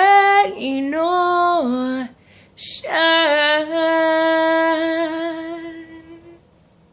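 A woman singing a cappella: a few sustained notes that step up and down, a short hiss, then one long held final note that fades out near the end.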